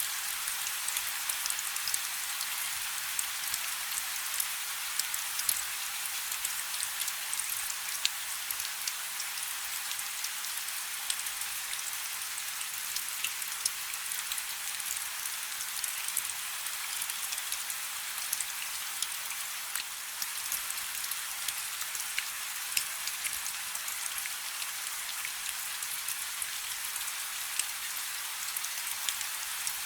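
Light rain falling steadily: an even hiss with many small scattered drop ticks, no thunder.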